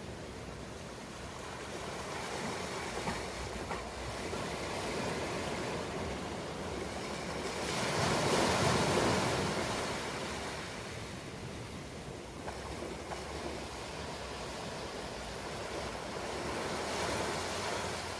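Ocean waves breaking and washing on a shore, a steady surf noise that swells to its loudest wave about eight to ten seconds in and rises again gently near the end.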